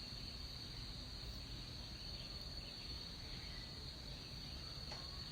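Rainforest insects, crickets or cicadas, keeping up a continuous high-pitched drone at one steady pitch over a low background hum. There is a faint click near the end.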